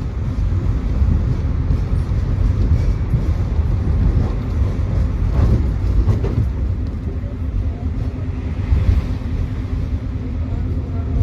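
Tram running, heard from on board: a steady low rumble from the wheels on the rails and the running gear, with a faint steady hum.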